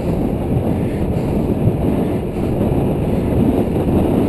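Steady wind rushing over the microphone of a camera riding on a moving mountain bike, mixed with rolling road noise.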